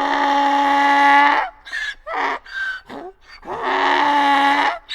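Donkey braying: two long drawn-out calls with short gasping calls between them.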